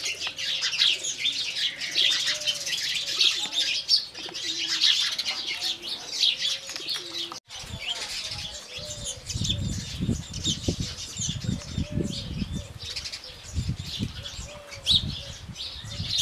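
A flock of house sparrows chirping busily, many overlapping short chirps. About halfway through the chirping thins and low rumbling bursts come in.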